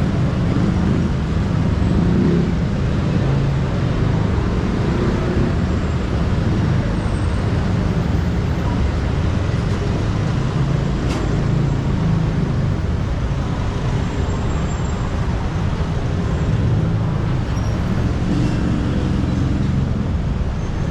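Steady road traffic noise: a continuous low drone of engines and tyres from passing motor vehicles.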